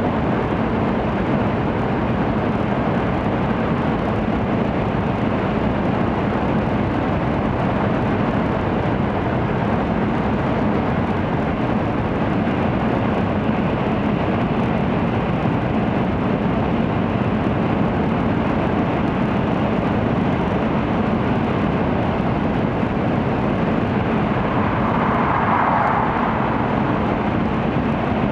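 Cabin running noise of an N700-series Shinkansen at speed: a steady rumble and rushing with a low hum underneath. A brief swell in the rushing comes about 25 seconds in.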